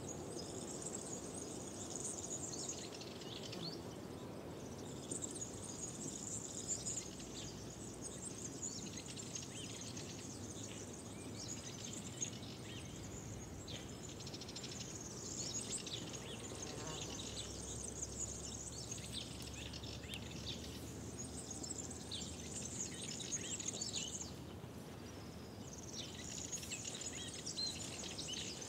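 Outdoor spring ambience with a chorus of small birds singing and chirping in bouts, with short lulls now and then. Under it runs a steady low background noise.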